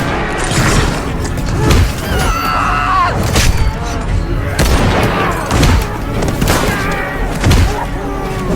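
Combat sound-effects mix: repeated explosions and bursts of gunfire, with soldiers shouting over the top.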